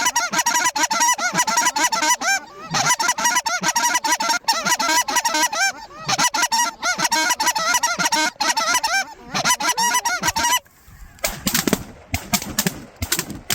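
Geese honking, many calls overlapping in a continuous clamour, which breaks off about ten and a half seconds in; a few sharp clicks or knocks follow near the end.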